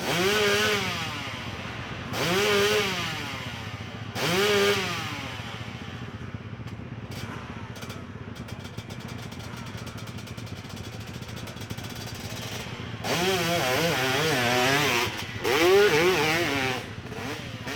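Motorcycle engine blipped three times, each rev rising and falling in pitch, then idling. About thirteen seconds in it runs hard for a few seconds, its pitch wavering up and down with a short break in the middle.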